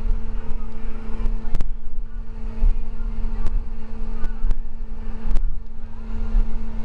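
Interior of a moving school bus: the engine drones steadily over a low road rumble, with a few sharp knocks and rattles as the bus goes over bumps.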